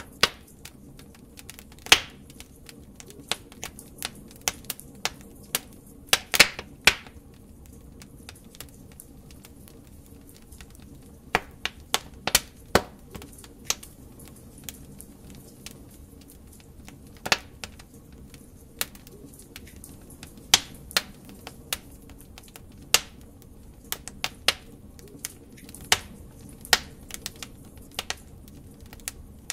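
Wood fire burning in a fireplace: irregular sharp crackles and pops from the burning logs, some close together in clusters, over a soft steady low hiss.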